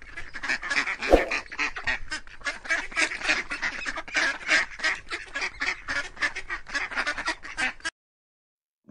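A flock of domestic geese honking: many short calls in quick, overlapping succession, stopping about a second before the end. A brief low thud comes about a second in.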